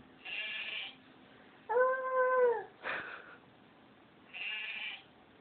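A cat meow, one clear pitched call rising and falling in the middle. Short breathy hissing sounds come before and after it.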